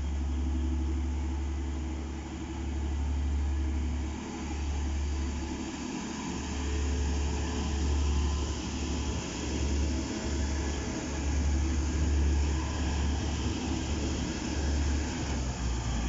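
TransPennine Express Class 185 diesel multiple unit pulling out and passing close by, its underfloor diesel engines running under power. A heavy low rumble comes and goes throughout, and a rising hiss of wheels on rail builds from about four seconds in.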